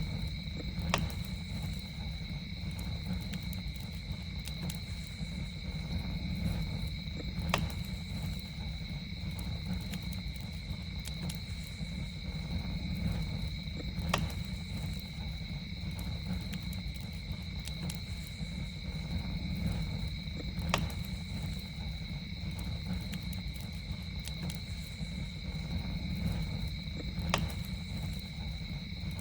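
Campfire burning with a steady low rumble and a sharp pop about every six to seven seconds, with faint crackles between. Under it runs a continuous high insect drone at two steady pitches.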